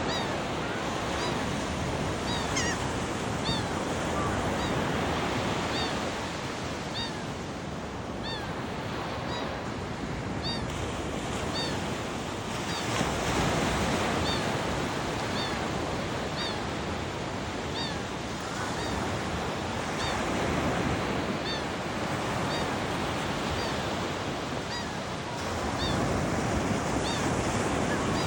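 A bird repeats short, high chirps about once a second, typical of a bird begging for food from another's beak. A steady rushing noise, like surf or wind, runs under the chirps and is the loudest sound.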